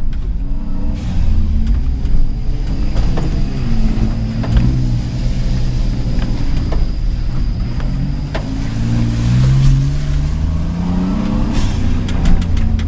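Car engine running under load on a rough dirt track, heard from on board, its pitch shifting with the throttle and climbing steadily about two-thirds of the way through. Several sharp knocks break in along the way.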